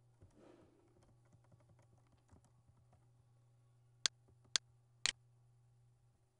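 Computer keyboard typing in faint, scattered keystrokes, then three loud, sharp clicks about half a second apart, over a steady low hum.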